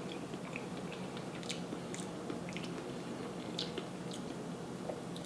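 Close-up eating sounds: quiet chewing with scattered small clicks from the mouth.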